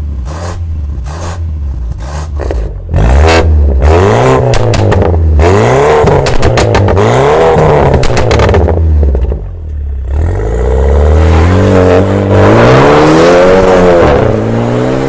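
BMW 4 Series F32 exhaust, fitted with a valve-controlled muffler, idling and then being revved up and down several times, with sharp crackles among the revs.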